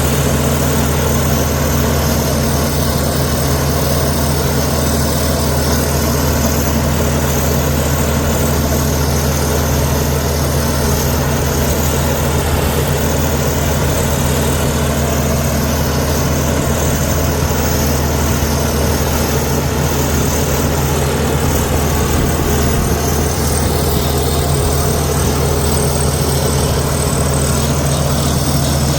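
Komatsu D61EX bulldozer's diesel engine running at a steady, even pitch.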